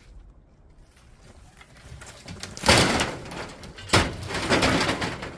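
A storm-damaged tree coming down: two loud crashes about a second apart, each followed by a long rustle and crackle of branches.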